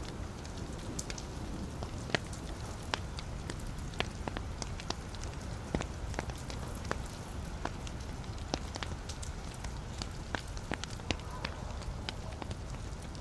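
Wood fire burning in a fireplace, with a steady low rumble of flame and sharp, irregular crackles and pops from the burning logs, several a second.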